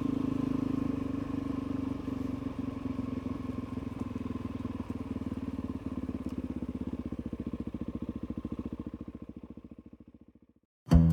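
Suzuki DR-Z400E's single-cylinder four-stroke engine running steadily with evenly spaced firing pulses, fading out near the end. Acoustic guitar music starts just as it dies away.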